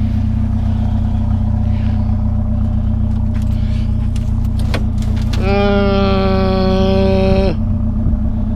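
Truck engine idling steadily. A few sharp clicks, then about five seconds in a loud steady pitched tone that lasts about two seconds and cuts off.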